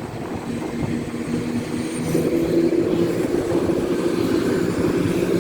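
A CrossCountry Class 170 Turbostar diesel multiple unit's engines running, with a steady engine note that gets louder and steps up in pitch about two seconds in as the unit powers up.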